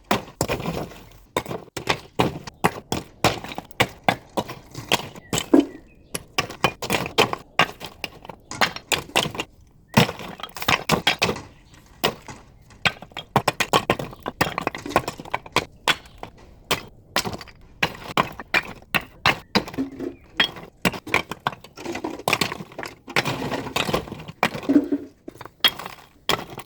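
Hammer striking limestone in quick, irregular blows, several a second, with short pauses, as stone is chipped and shaped for the wall.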